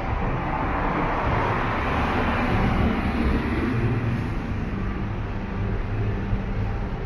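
Road traffic: a vehicle passing by, its engine and tyre noise swelling about two to three seconds in and then fading, over a steady low engine rumble.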